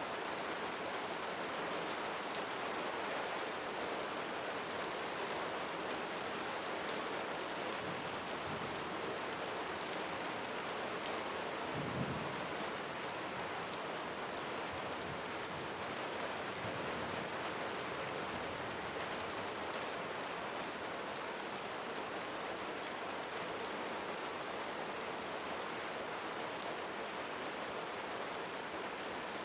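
Steady rain falling on rainforest leaves, with a short low rumble near the middle.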